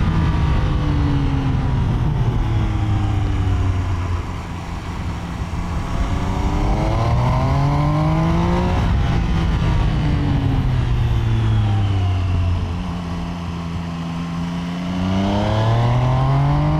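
Triumph Trident 800's 798cc triple-cylinder engine under a riding load, its revs rising and falling with the throttle. It eases off about four seconds in, climbs to a gear change, falls away and goes quieter, then climbs hard again near the end.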